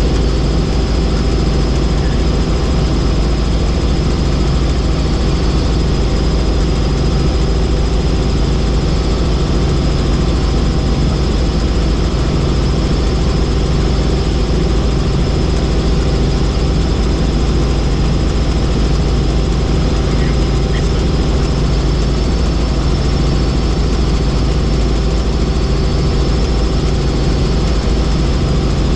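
Helicopter in flight: a loud, unchanging drone of engine and rotor, with a thin steady whine above it.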